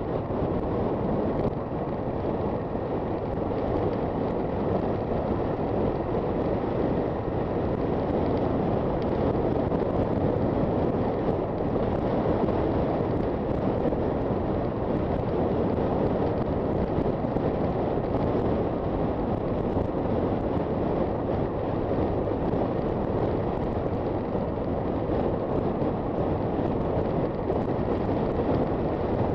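Honda FT400 single-cylinder motorcycle riding along at a steady speed: the engine runs evenly under wind rushing over the microphone.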